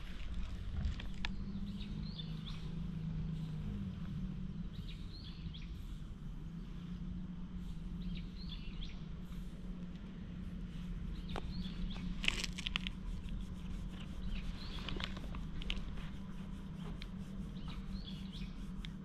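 Short bird calls repeating about every three seconds over a steady low hum, with a brief cluster of soft clicks about two-thirds of the way through.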